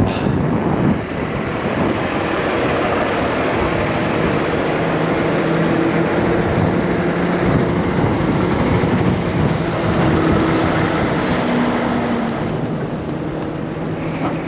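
A heavy truck's diesel engine running steadily, with a low hum that holds throughout and a short hiss about ten seconds in.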